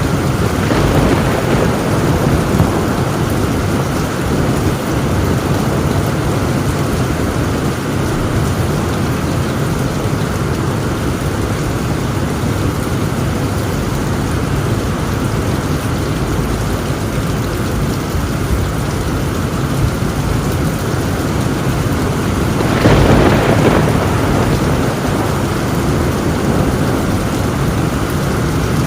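Heavy rain falling on a tin roof in a steady, dense downpour, with thunder in a thunderstorm. About two-thirds of the way through there is a brief louder surge.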